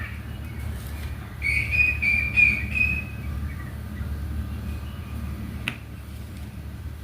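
A bird chirping, a quick run of short high notes about one and a half to three seconds in, over a steady low hum. A single sharp click comes near the end.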